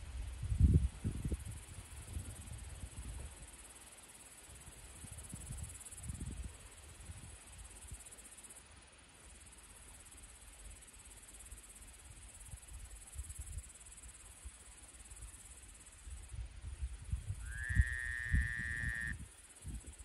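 Steady high-pitched chorus of insects, with irregular bursts of low rumble coming and going. Near the end a single pitched call rises slightly and then holds for about a second and a half.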